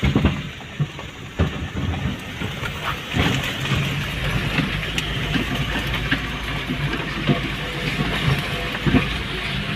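Heavy machinery running: a steady engine rumble with irregular metallic clanks and knocks, starting suddenly.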